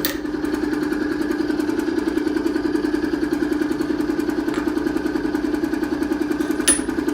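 Timken-type lubricant load tester running steadily, its motor-driven test ring spinning against the test block in a bath of oil with additive, with a fast, even pulsing hum. A sharp metallic click comes near the end.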